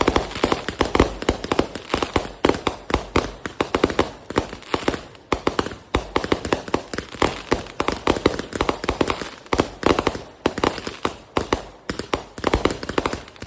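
Fireworks going off in a rapid, unbroken string of sharp cracks and bangs, many a second, with brief lulls about five and ten seconds in.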